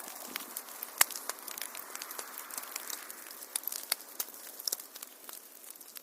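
Wood fire crackling: irregular sharp pops and snaps over a steady hiss, the loudest pop about a second in. The sound begins to fade away near the end.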